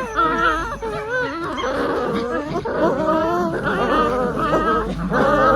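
Belgian Malinois puppy whining, a continuous run of wavering, pitched cries.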